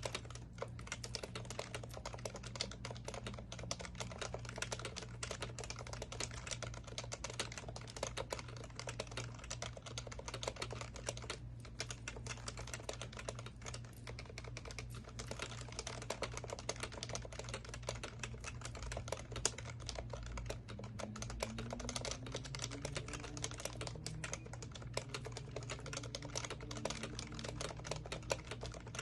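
Continuous typing on an HHKB Professional Classic keyboard with Topre electrostatic capacitive switches: a dense, unbroken stream of tactile key presses.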